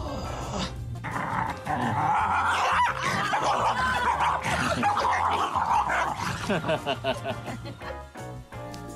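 A dog yelling excitedly, a long run of high calls that bend up and down in pitch for several seconds, over background music.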